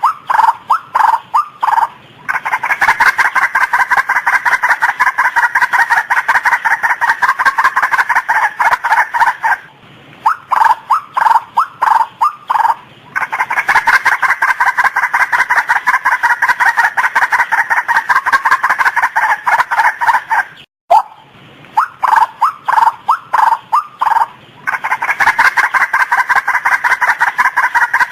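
Female white-breasted waterhen calling: a few spaced notes build into a long, fast, even run of repeated calls. The cycle comes round three times, with short breaks between runs.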